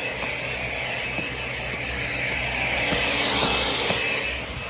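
A small motor running steadily with a rushing, whirring air sound. It swells a little louder about three seconds in, then eases near the end.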